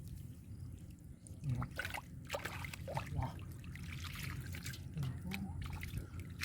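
Muddy water trickling and sloshing as hands dig through mud for fish, with scattered small wet splashes.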